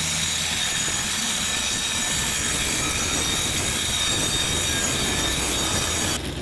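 Angle grinder with a concrete-cutting disc sawing through a ceramic wall tile: a steady high whine over harsh grinding noise, cutting off near the end.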